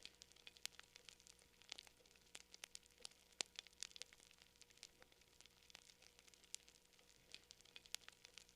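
Quiet campfire crackling: irregular sharp pops and snaps of burning wood, several a second, the loudest about three and a half seconds in.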